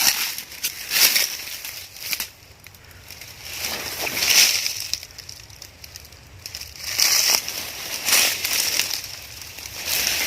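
Rustling and crunching noises in irregular bursts, a second or two apart.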